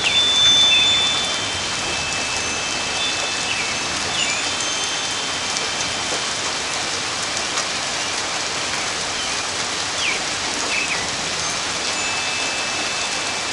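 Rain falling steadily during a thunderstorm, an even hiss with no clear thunderclap.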